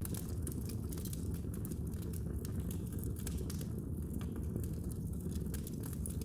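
Fire burning in a fireplace: many small, irregular crackles and snaps over a steady low rumble.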